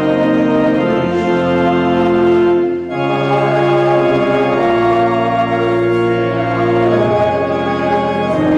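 Church organ playing music in sustained chords that change every second or two, with a short break about three seconds in; coming right after the benediction, it is the postlude closing the service.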